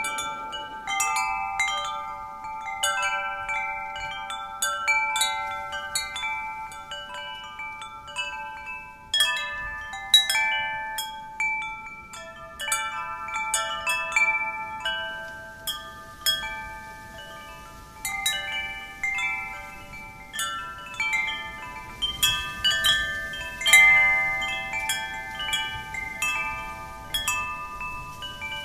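Wind chime ringing in irregular clusters of struck notes at a handful of fixed pitches, each note ringing on and fading; one strike a little past the middle is louder than the rest.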